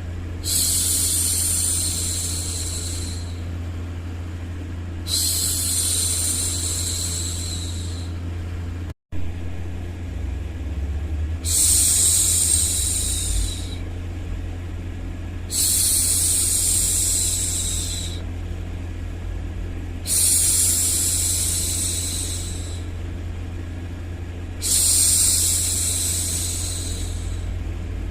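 A woman's voice shushing, a long "shhh" repeated six times, one about every four to five seconds, over a steady low rumbling noise bed for soothing a baby. All sound cuts out for an instant about nine seconds in.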